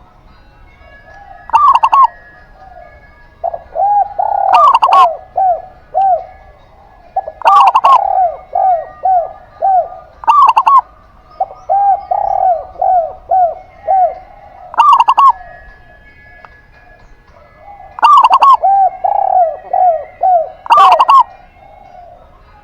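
Zebra dove and spotted dove calling. The calls come as repeated runs of short, arched coo notes about three a second, broken every few seconds by a sharper, louder note.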